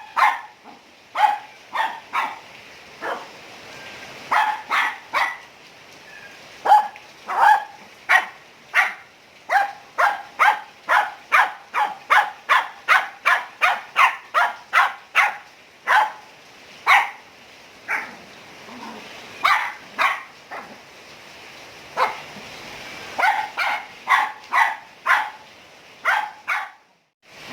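Dogs barking over and over in quick, sharp barks, two to three a second, with a couple of short pauses.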